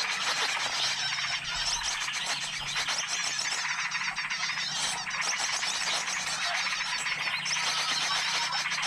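Bird-lure recording: a dense, continuous chorus of many small birds chirping and twittering at once, layered over a steady low hum.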